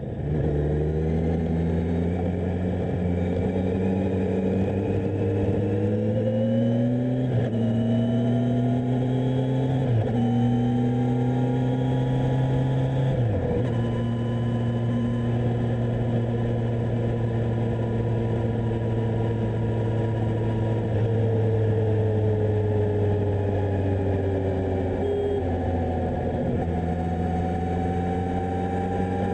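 Kawasaki Z1000SX inline-four engine under way, pulling up through the gears with a short drop in pitch at each upshift, about 7, 10 and 13 seconds in. It then holds a steady, slowly falling note and begins to rise again near the end.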